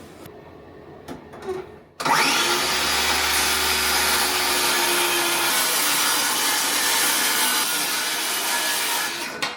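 Electric power tool cutting a wooden door down by about half an inch, running steadily for about seven seconds after starting abruptly about two seconds in, with a few light knocks just before.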